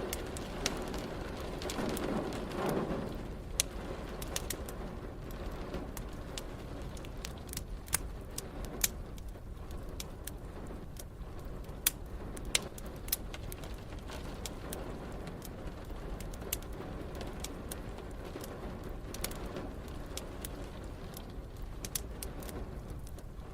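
Wood fire crackling, with sharp pops scattered irregularly over a steady low background rumble. A brief low swell comes about two seconds in.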